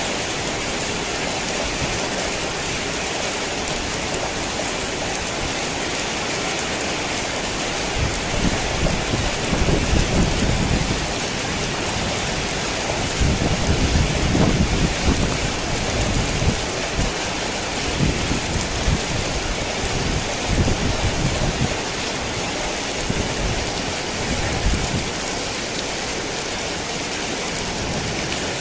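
Heavy rain falling steadily, with low rolls of thunder rumbling repeatedly through the middle stretch before fading back to rain alone.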